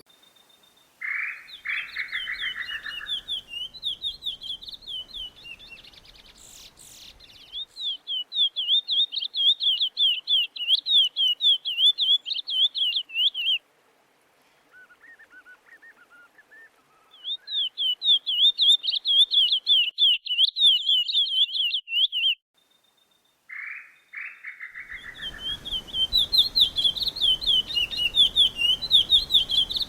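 A songbird singing long runs of rapid, high chirping notes. Each run opens with a lower buzzy note, and the song stops briefly twice before starting again.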